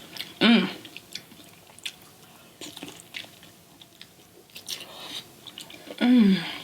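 Close-miked chewing of seafood, with small wet clicks and crackles, and a short pleased vocal hum about half a second in and again near the end.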